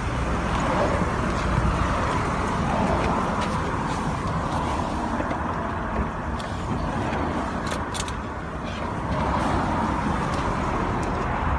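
Steady car noise, a low rumble under an even hiss, with a few sharp clicks about two-thirds of the way through.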